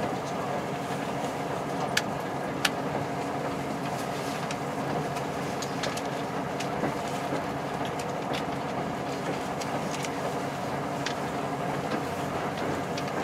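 Interior running noise of a diesel limited express train: a steady hum and rumble of the engine and the wheels on the rails, heard from inside the passenger car. A pair of sharp clicks comes about two seconds in.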